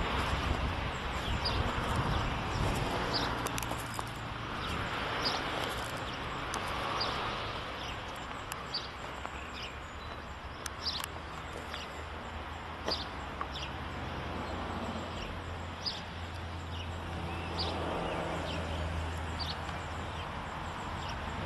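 Birds chirping in short calls every second or two over a low steady hum.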